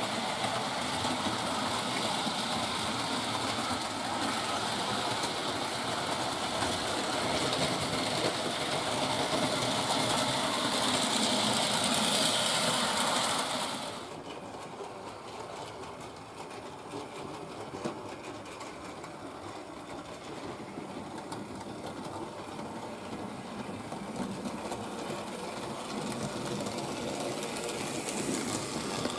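Hornby Dublo 3-rail model locomotive running on its track: a steady electric motor whirr with wheels clattering over the rails. The sound drops suddenly about halfway through and then slowly grows louder again near the end.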